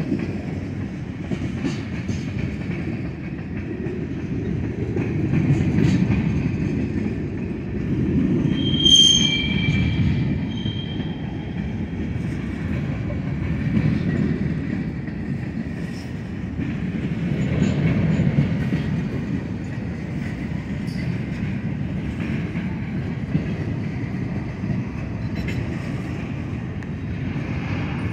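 Freight cars of a manifest train (tank cars, hoppers, an autorack and boxcars) rolling past: a steady rumble of steel wheels on rail, swelling every few seconds, with clicks over the rail joints. A brief high-pitched wheel squeal comes about nine seconds in.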